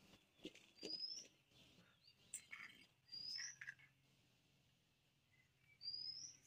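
A bird chirping faintly: three short rising whistles a couple of seconds apart, over near silence.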